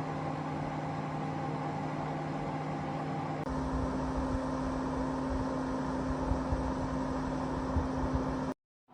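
Electric fireplace space heater's fan running with a steady hum. About a third of the way in it gets louder, with a deeper rumble and a slightly higher tone, and it cuts off abruptly near the end.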